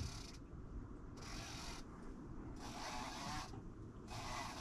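Fishing reel being wound in, a faint ratcheting whirr in three spells of about a second each, as a fish that has just taken the bait is brought up.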